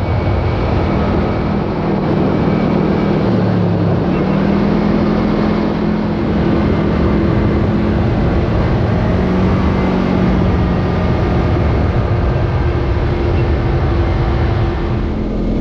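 Side-by-side UTV engine running steadily while driving, with road and tyre noise. The engine note dips briefly about four seconds in, then picks back up.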